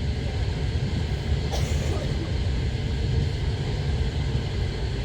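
Passenger train running along the track, a steady low rumble of wheels and carriage heard from inside the car, with one short sharp noise about one and a half seconds in.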